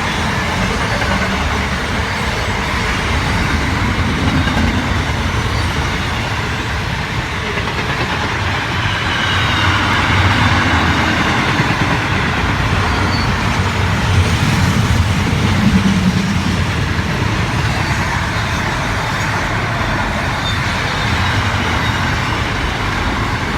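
Container freight train rolling past: a loud, steady rumble of wagons on the rails that swells a little in the middle.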